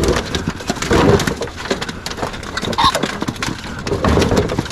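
Pheasants scuffling and knocking about inside a release box as they are coaxed out, with irregular knocks and scrapes and a few short pitched blips.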